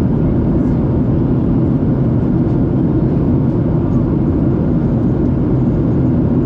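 Steady low cabin roar of a Boeing 737-700 in flight, the rush of airflow and its CFM56-7B turbofan engines heard from inside the passenger cabin.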